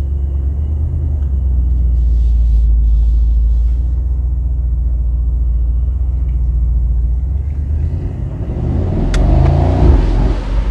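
Mercedes-AMG SL63's twin-turbo V8 rumbling deeply at low speed, then accelerating hard near the end, with rising engine pitch and a single sharp crack about nine seconds in.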